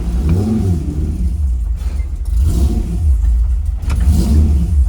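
Dodge Viper's V10 race engine running cold with a rough, unsteady idle: the revs swell up and sag back a few times as it struggles to keep running. This is the finicky idle on the new tune, which the driver says goes away once the engine has some temperature in it.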